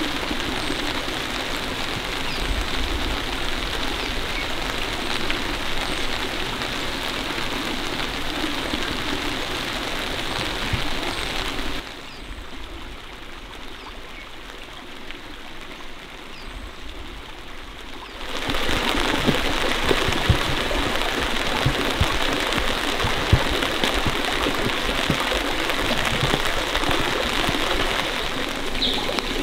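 Steady rain falling, with many individual drops striking a surface. It turns quieter for about six seconds in the middle, then comes back louder, with frequent sharp drop hits.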